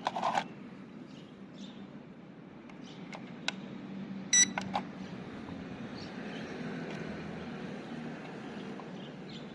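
Short electronic beep from a toy drone set about four and a half seconds in, over a steady low hum and scattered clicks of handling.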